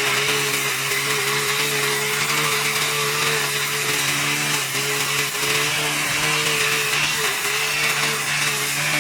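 A small motor running steadily at an even speed, with a hiss over it.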